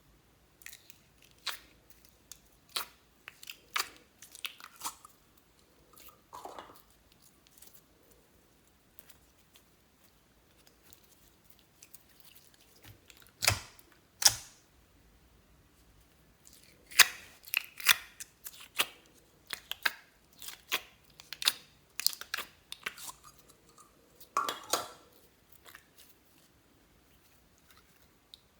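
Slime being handled and pressed, giving irregular sharp clicks and pops. The clicks come in clusters, with two loud pops about 13 to 14 seconds in and a dense run from about 17 to 25 seconds.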